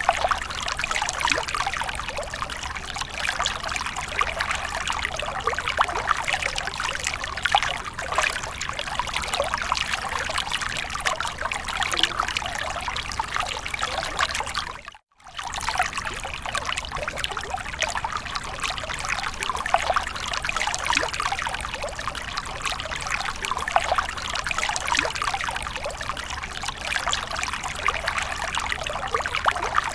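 Water splashing and trickling continuously, an even spattering noise. It drops out briefly about halfway through.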